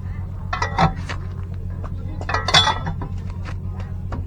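Metal tools and brake parts clinking against each other in two short clusters, about half a second in and about two and a half seconds in, over a steady low hum.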